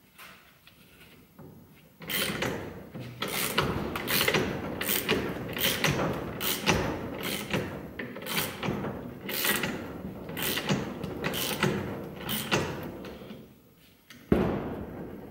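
Workshop tool work on a car's front suspension strut: a steady mechanical noise with sharp metallic clanks about every half second to a second, stopping, then a single loud thump near the end.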